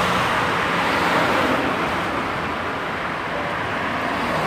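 Road traffic: cars passing by, a steady rush of engine and tyre noise that swells and eases a little.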